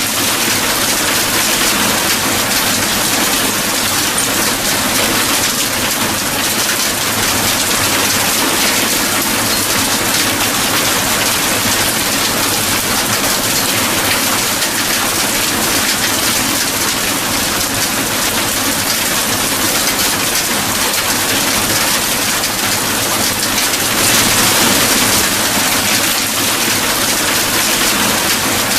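Steady heavy rainfall, an even hiss of rain falling on surfaces.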